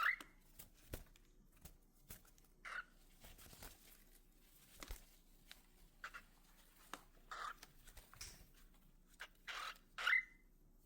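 Cockatiels giving short calls every second or few, about six in all, two in quick succession near the end, with faint scratching and clicking of movement in between.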